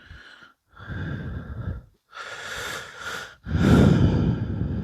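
A person breathing heavily close to the microphone: four or five breaths about a second each with short gaps between, with a faint whistle in each breath. The strongest breath comes about three and a half seconds in.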